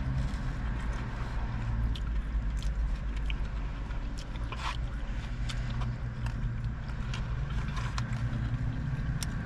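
A person chewing and eating, with scattered small clicks and scrapes, over a steady low hum.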